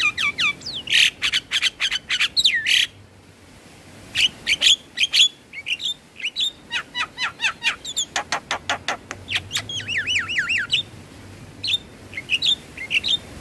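Javan myna song: a varied, loud stream of chirps, squawks and whistles. About 8 s in comes a quick run of clicks, and just after it a series of looping slurred whistles; there is a short pause about 3 s in.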